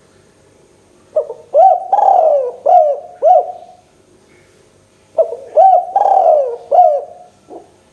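Spotted dove (tekukur) cooing: two phrases, each a run of about five arched, falling coo notes, with a pause between.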